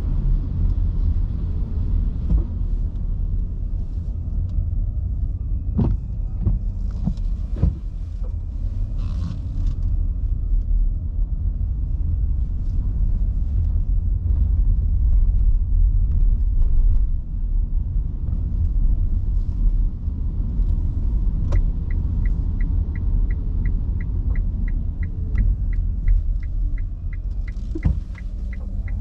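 Steady low road rumble inside an electric car's cabin driving on wet streets in heavy rain, with a few sharp knocks about a quarter of the way in. From about three-quarters through, the turn-signal indicator ticks about three times a second.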